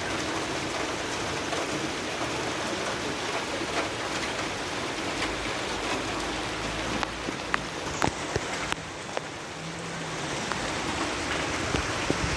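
Steady rain falling, an even hiss with scattered sharp drips and taps of drops hitting a surface.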